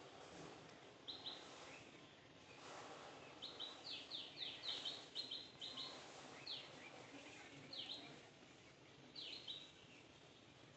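Short, high chirps of a small bird, each falling quickly in pitch, coming in pairs and quick runs every second or so, over a faint steady background hiss.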